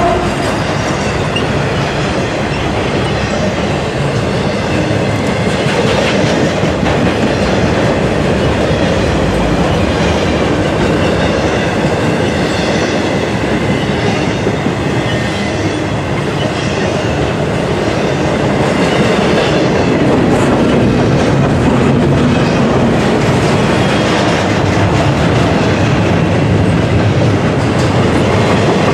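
Freight train's intermodal cars rolling past close by: a steady rumble of steel wheels on rail with clickety-clack over the rail joints, getting a little louder about two-thirds of the way through.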